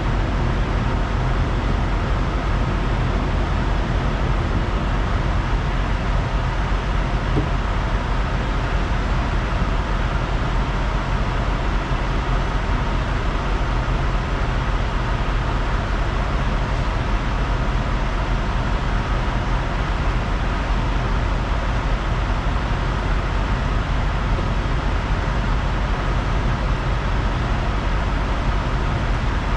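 Semi-truck's diesel engine and road noise, an even low hum at a constant level.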